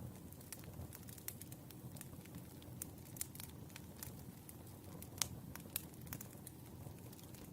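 Wood fire crackling: irregular sharp pops and snaps over a low, steady rumble of the burning logs, the loudest pop about five seconds in.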